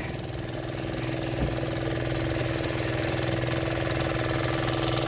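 A fishing boat's engine running steadily, getting slightly louder over the first couple of seconds and then holding even.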